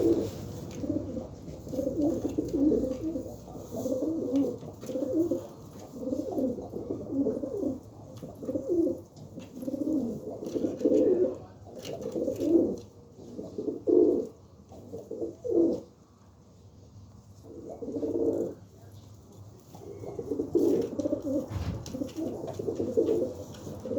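Domestic pigeons cooing over and over in low, throaty phrases, with a short lull about two-thirds of the way through.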